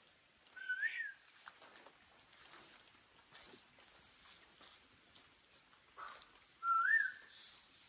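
A bird calling: a short whistled note that rises and then dips, given twice about six seconds apart, over a faint steady high hiss.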